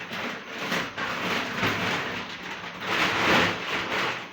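Grocery packaging rustling and crinkling as items are handled, swelling loudest about three seconds in.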